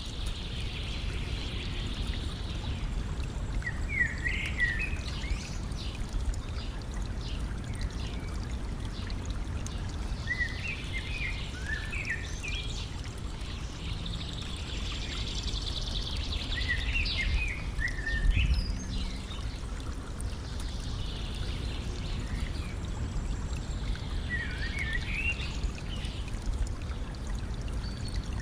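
Stream flowing and trickling steadily, with a songbird singing short phrases every few seconds.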